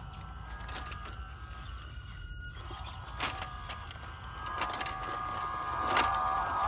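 Small 370 brushed electric motor and metal gear transmission of a 1:16 RC crawler whining as it drives, the pitch shifting with the throttle and growing louder near the end, with several sharp clicks and knocks among it.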